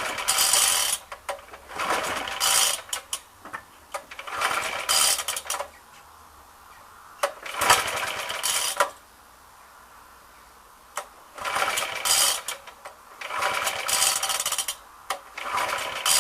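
Suffolk lawnmower's 75cc four-stroke sidevalve engine being pull-started over and over, about seven pulls of the recoil starter cord roughly two seconds apart, each a second-long whirr of the engine turning over without catching. The owner suspects carburettor problems.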